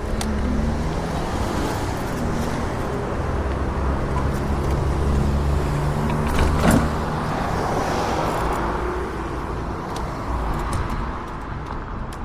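Road noise from riding along a road: a steady low hum under rushing wind-and-tyre noise, with one sharp knock a little past halfway.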